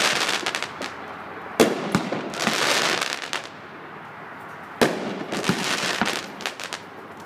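Fireworks going off close by: sharp bangs about one and a half seconds in and again near five seconds, with crackling pops and hiss between them.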